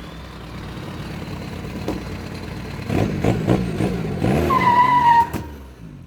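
Mini truck's engine revving hard under load while pulling on a rooted buckthorn, building about halfway through. A short high squeal comes near the end, just before the revs drop.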